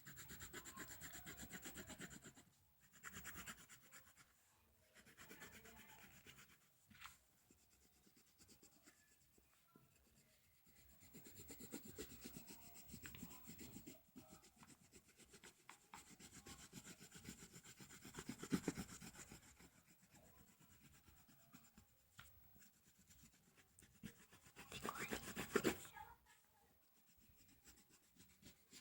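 Colored pencil shading on the paper of a colouring book: spells of rapid strokes with short pauses between them, the loudest spell near the end.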